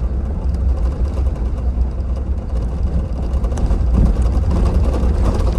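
Steady low rumble of motor vehicle traffic, growing a little louder about four seconds in.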